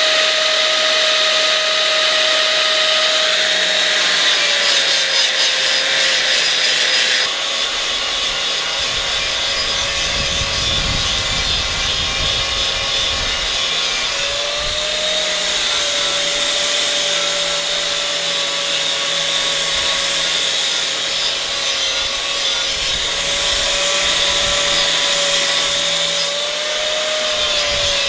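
Angle grinder running continuously on steel, a steady whine over gritty hiss, its pitch sagging and recovering several times as it is pressed into the metal.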